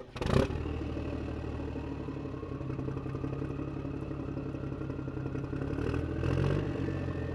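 Electric motors and gearboxes of a Huina 1593 radio-controlled excavator whirring steadily, with a slowly rising whine and louder surges about six seconds in. There is a sharp knock right at the start.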